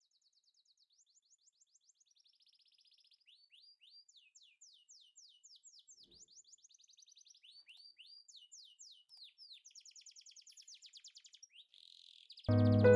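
A songbird singing a long, continuous song of rapid trills and quick downward-sweeping notes, fading in gradually from very faint. Music cuts in just before the end.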